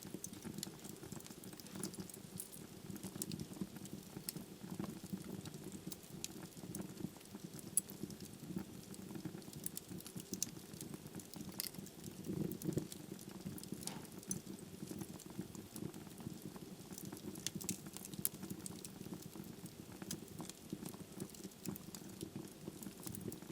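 Wood fire burning in a fireplace: irregular sharp crackles and pops from the burning logs over a steady low rush of the flames.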